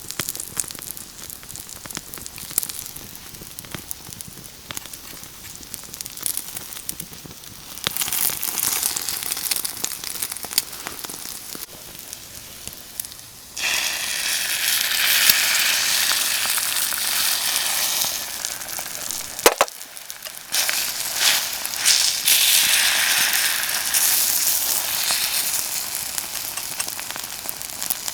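Food sizzling over a wood campfire, with the fire crackling. The sizzle steps up about eight seconds in and again about halfway, then drops out briefly about two-thirds of the way through before starting again.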